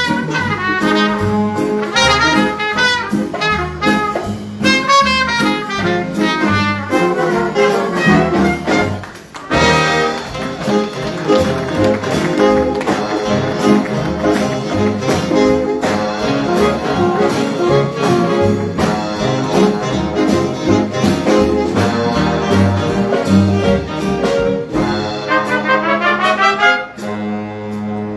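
High school jazz big band playing with trumpets, trombones and saxophones over drums. The playing drops back briefly about a third of the way in. Near the end a run of rising notes gives way to a quieter held low note.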